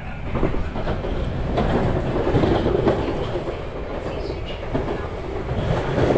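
Running noise of an East Rail Line SP1900 electric train heard from inside the passenger cabin while under way: a steady rumble of wheels on rail that grows louder about a second in, with a few separate clacks.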